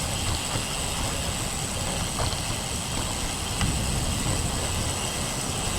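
Gusty wind buffeting the microphone of a camera on a moving road bike: a steady rush, heaviest in the low rumble, with hiss on top.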